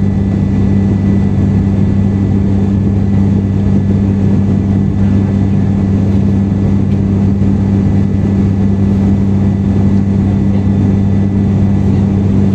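Steady drone of an airliner cabin in flight: engine and airflow noise with a deep, constant hum.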